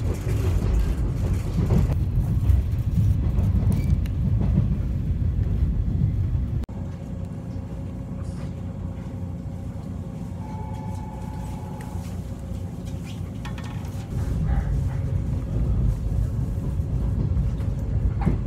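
Interior running noise of a JNR 455-series express-type train car: a low rumble that drops suddenly about seven seconds in to a quieter hum with a faint steady tone, then grows loud again about fourteen seconds in.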